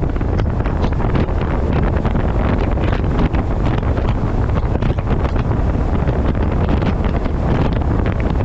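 Loud, steady wind buffeting the microphone of a camera strapped to the front of a moving truck, a dense low rush with constant rapid flutter.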